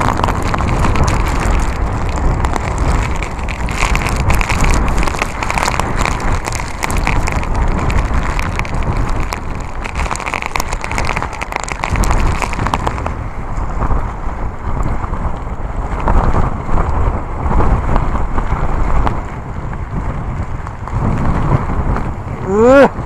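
Typhoon-force wind buffeting a phone's microphone, with rain hitting it in a dense crackle for the first half; the crackle thins after about thirteen seconds while the wind roar goes on. A brief rising tone sounds near the end.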